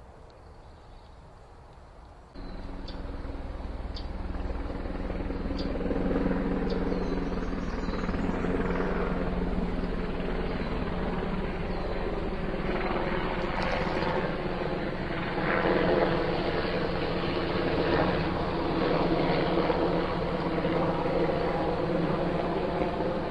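Faint bird chirps, then about two seconds in a loud, steady engine drone cuts in abruptly, with a low hum and its overtones, and keeps running.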